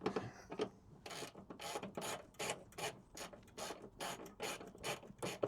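Hand socket ratchet clicking as a 30 mm bolt is worked loose by hand: a run of short, sharp clicks, about four a second.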